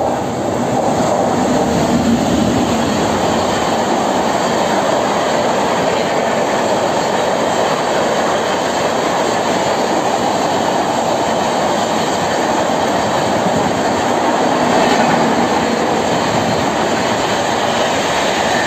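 Express train led by a WAP-7 electric locomotive, with LHB Humsafar coaches, passing close at speed: a loud, steady rush of wheels on rail.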